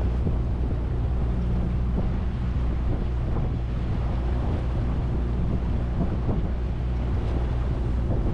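A fishing boat's motor running steadily under way, with wind rushing over the microphone.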